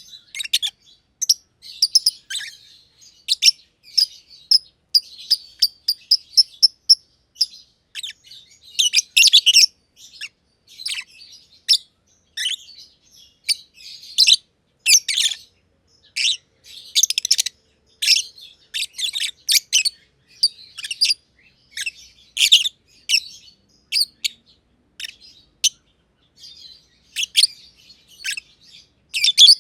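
Two black-masked lovebirds (personatas) chirping, a run of short, sharp high-pitched chirps and squeaky bursts, uneven in rhythm, with a few brief pauses.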